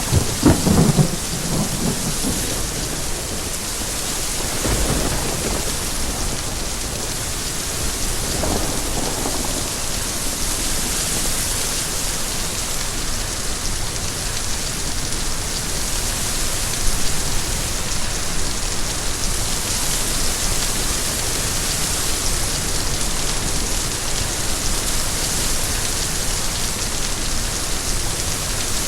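Steady rain falling, with low rumbles of thunder: the strongest right at the start, and fainter rolls a few seconds later.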